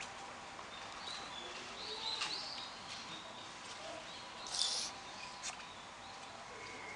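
Outdoor background noise with a few short, high chirps of small birds now and then; the loudest is a brief sharp one a little past halfway.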